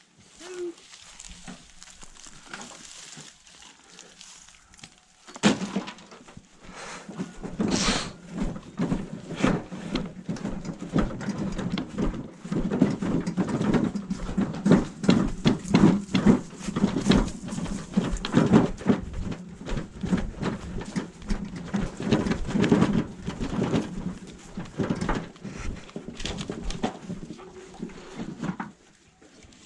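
Hand cart loaded with firewood rattling and rumbling as it is pushed over rough ground, starting about five seconds in and going on as rapid, irregular clatter.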